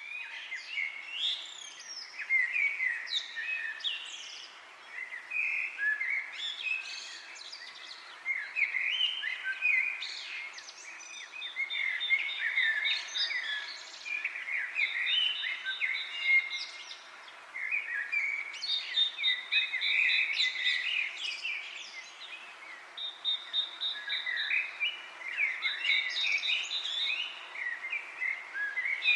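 Several songbirds chirping and warbling continuously, with a fast one-note trill repeating every few seconds from about a third of the way in. A faint steady rustle of wind in leaves runs underneath.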